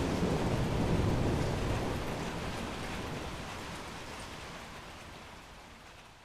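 Steady rain with the low rumble of thunder dying away. The whole sound fades gradually to faint by the end.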